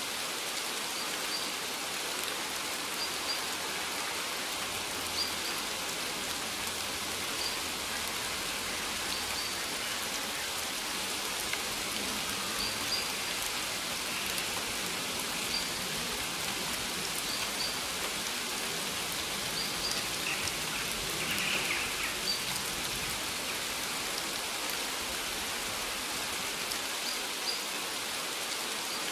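Steady rain falling on a maize field: an even hiss of many drops on the leaves, with scattered sharper drop hits.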